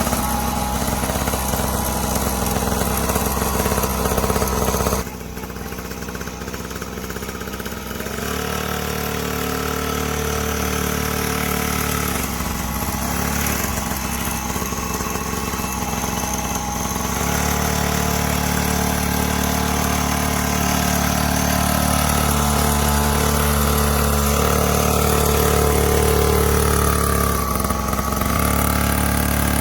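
Dirt bike engine running as it is ridden. Its loudness drops about five seconds in, then builds slowly, and its note shifts several times as the throttle changes, rising briefly near the end.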